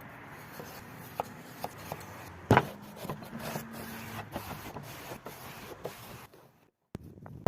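Cooking and handling noises: scattered clicks and rubbing, with one loud knock about two and a half seconds in. The sound breaks off briefly near the end.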